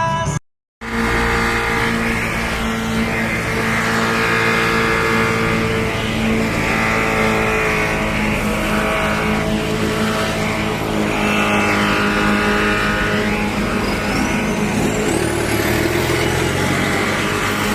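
A car driving at a steady speed, its engine and road noise running evenly.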